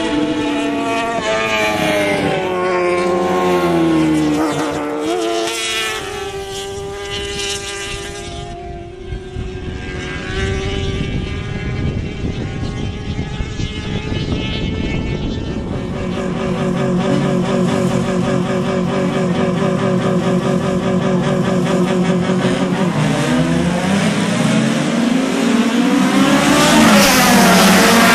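Race car engines revving hard on a circuit, their pitch climbing and dropping with gear changes and passes. One engine holds a steady note through the middle, and a loud pass builds near the end.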